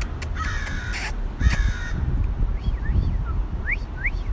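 Crows cawing harshly twice in the first second and a half, then a few thin whistled chirps that rise and fall. The crows are mobbing a hawk.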